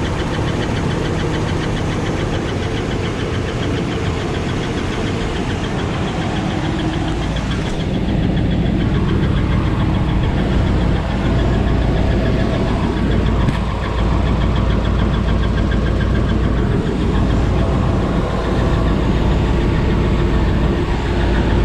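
Tow truck's engine running steadily, getting a little louder and heavier about eight seconds in.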